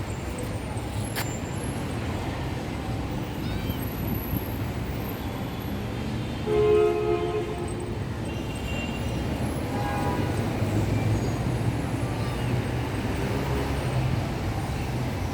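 Steady low rumble of vehicle noise, with a short flat-pitched horn-like tone with several overtones about seven seconds in, the loudest sound.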